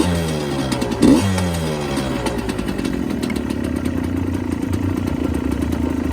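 Freshly rebuilt Suzuki TS125ER two-stroke single-cylinder engine, fitted with new main and big-end bearings, a new con rod and a 2 mm big-bore kit. The throttle is blipped twice, at the start and about a second in, with the revs falling back each time, and the engine then idles steadily.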